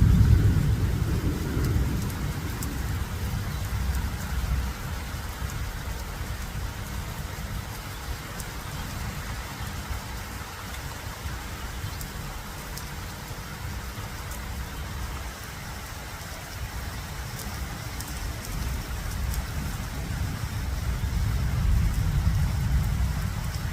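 Rain falling steadily, an even hiss scattered with sharp drop ticks. A low rumble is strong at the start, fades over the first few seconds and builds again near the end.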